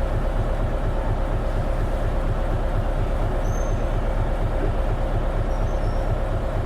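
Isuzu Erga KL-LV280N1 city bus's diesel engine and drivetrain running steadily under way, heard from inside the cabin: an even, pulsing rumble with a steady whine over it.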